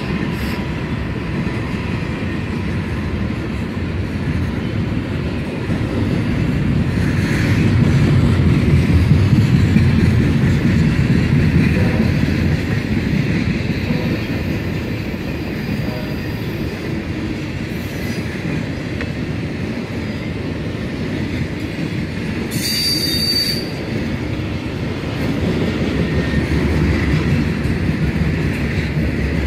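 Norfolk Southern intermodal freight train's cars, loaded with trailers and double-stacked containers, rolling past: a steady rumble and clatter of steel wheels on rail, swelling louder about a quarter of the way through. A brief high squeal sounds about three-quarters of the way through.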